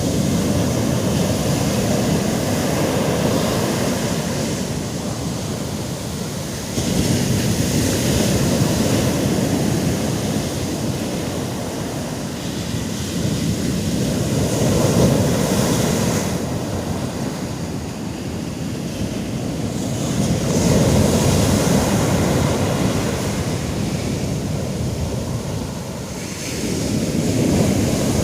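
Sea waves breaking on the shore, surging in about every six or seven seconds, with wind on the microphone.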